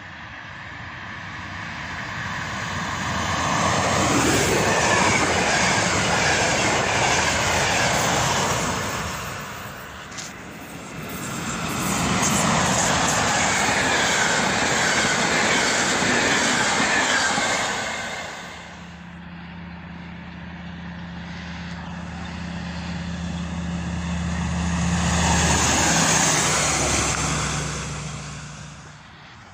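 Electric trains passing at speed, three times in a row. Each pass swells to a loud rush and fades, and the last carries a steady low hum.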